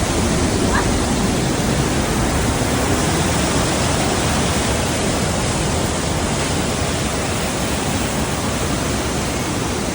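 Rhine Falls, a large waterfall, crashing with a loud, steady rushing roar that does not let up.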